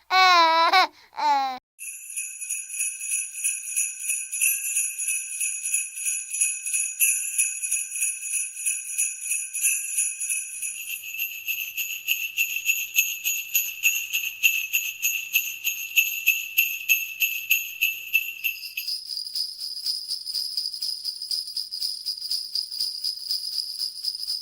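Small jingle bells shaken rapidly and continuously, a bright, even shimmer of ringing. The set of bells changes twice, about halfway and again about three-quarters through, each time to a differently pitched set. A baby's brief babbling comes just before the bells start.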